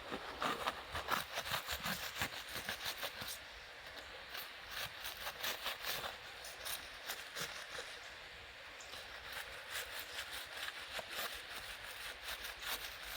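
Wood campfire crackling: irregular sharp snaps and pops over a soft hiss, thickest in the first few seconds.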